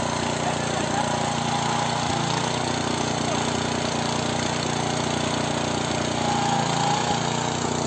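Small petrol engine of a walk-behind motor-cultivator running steadily under load as its rotating tines dig through garden soil.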